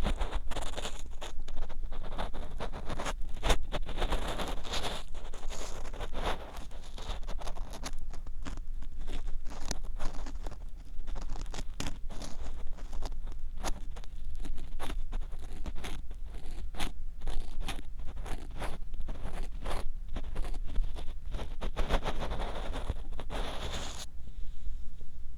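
Ear pick scraping and clicking inside the ear of a binaural microphone, close up, in irregular strokes. A denser run of scraping near the end stops abruptly.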